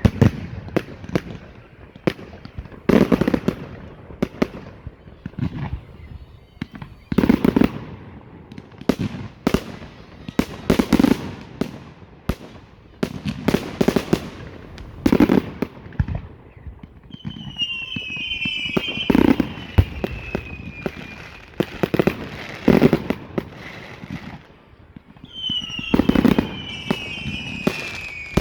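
Category 4 display fireworks going off: loud bangs of bursting shells every two to four seconds, with crackling between them. Twice, a cluster of high whistles falls slightly in pitch over a few seconds.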